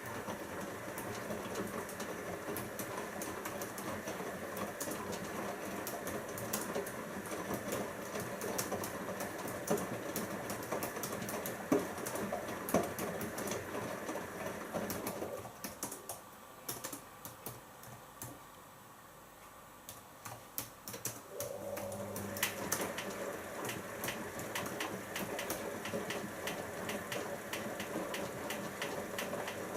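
Siemens iQ washing machine drum turning the laundry through rinse water: a motor hum with a steady patter of clicks and splashes. About halfway through the drum stops for several seconds, then starts turning again, the usual stop-and-reverse of a wash or rinse cycle.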